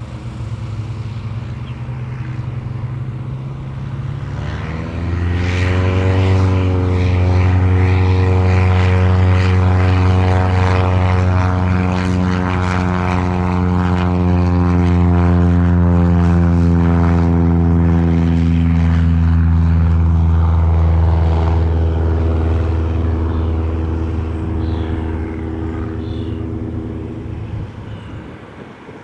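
Cessna 177RG Cardinal's four-cylinder Lycoming engine and propeller throttling up for takeoff: the note climbs in pitch and loudness about five seconds in, runs steady at full power, then slowly drops in pitch and fades as the plane departs.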